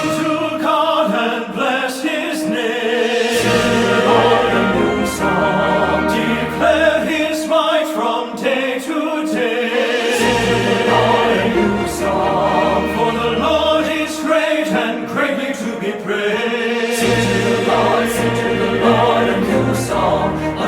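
Choir singing a Christian worship song with instrumental accompaniment and a bass line that drops in and out.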